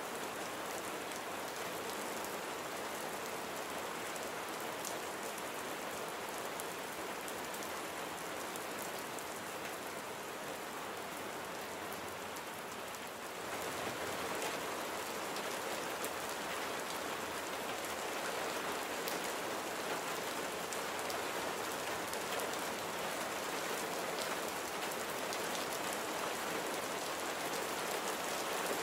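Steady rain falling, a dense hiss with fine pattering drops; about halfway through it turns a little louder and heavier.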